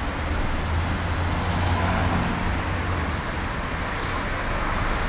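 Steady road traffic noise with a low engine rumble from passing vehicles. Two brief hisses come through, one near the start and one about four seconds in.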